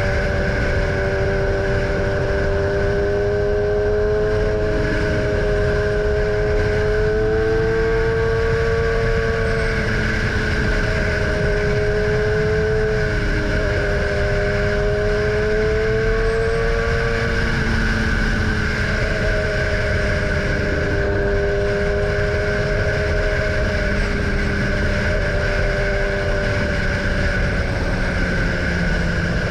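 BMW S1000R inline-four sport motorcycle engine running at steady road speed, its pitch drifting gently up and down with small throttle changes, over a constant rush of wind.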